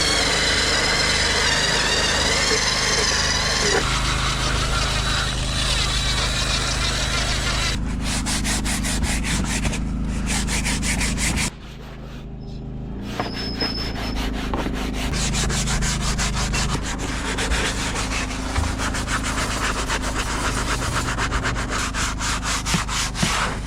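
Rapid rhythmic scrubbing or rubbing against a surface over a steady low hum, typical of brush-scrubbing during vehicle detailing. A wavering whine sounds in the first few seconds, and the scrubbing breaks off briefly about halfway through.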